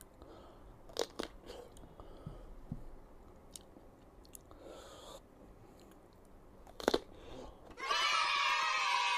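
Crisp bites and chewing of raw green mango, with scattered sharp crunches. A louder, steady pitched sound starts near the end.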